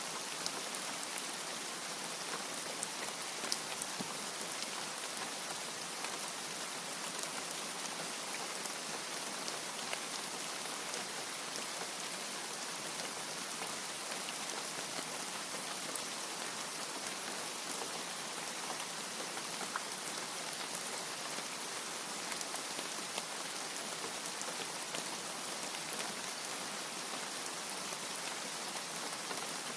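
Steady rain falling, an even hiss with scattered sharp drop taps and no thunder.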